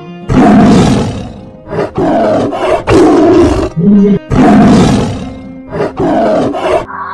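A big cat roaring, a run of about five loud, rough roars with short gaps between them, over quiet background music.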